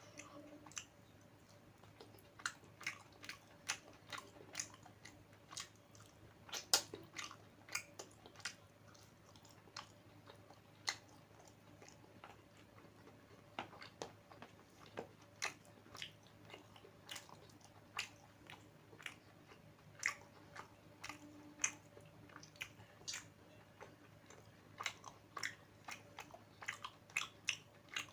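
A person eating close to the microphone: chewing with frequent short, irregular smacking clicks of the mouth.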